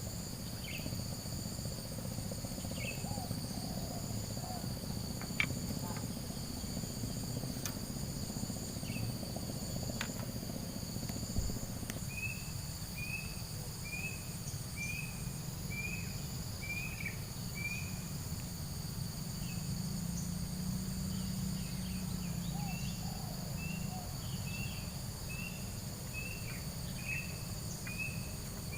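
Night insects such as crickets trilling steadily in two high continuous tones over a low steady rumble. From about halfway, a run of short chirps repeats about twice a second.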